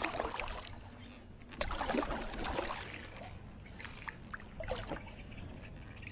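Paddle strokes dipping and splashing in the water, coming in a few separate strokes a second or two apart.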